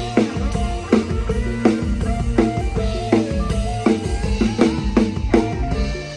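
Live band music led by a PDP drum kit: kick and snare hits in a steady beat, with bass and pitched instrument lines under them.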